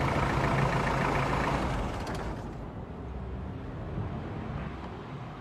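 Mitsubishi Libero's engine running steadily, then cut off about two seconds in, leaving a faint low hum.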